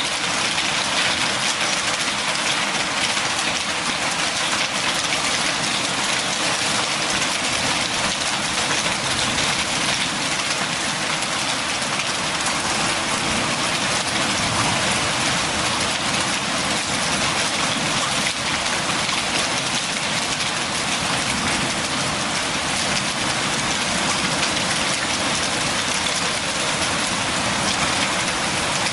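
Steady rain falling, a continuous even hiss of drops on surfaces.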